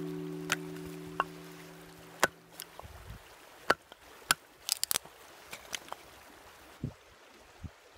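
A guitar's last note rings out and fades over the first two seconds or so, then a campfire crackles with sparse, irregular sharp snaps.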